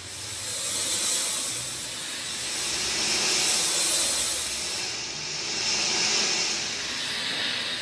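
Steady rain hiss that swells and eases in slow waves every couple of seconds.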